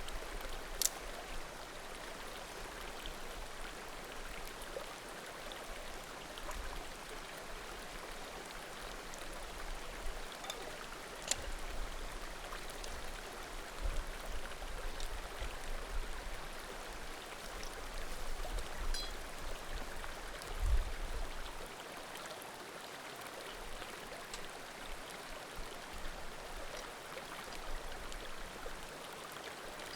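Small mountain creek murmuring steadily over stones, with a few sharp pops from burning firewood in a bonfire.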